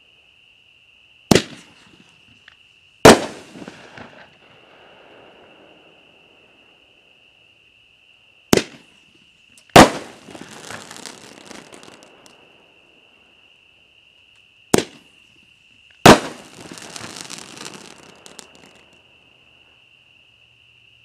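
Three consumer aerial firework shells, each fired from its tube with a sharp thump and bursting with a louder bang about a second and a half later. The last two bursts are followed by about two seconds of dense crackling from crackle-willow stars. A steady high-pitched tone runs underneath throughout.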